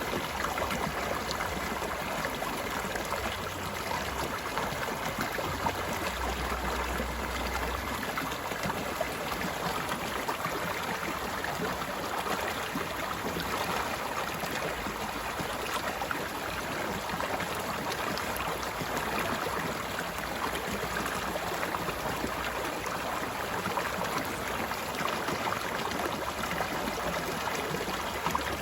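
A stream flowing steadily, water babbling and splashing over rocks in a continuous rush.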